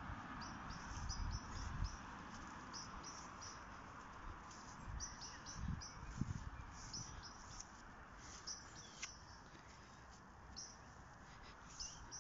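Small birds chirping and singing in short, high repeated phrases, faint, over a steady background hiss, with a few low thumps.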